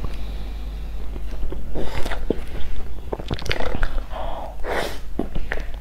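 Close-miked mouth sounds of eating soft strawberry cream cake: wet chewing, lip smacks and tongue clicks, with louder smacks about two seconds in and again near the end.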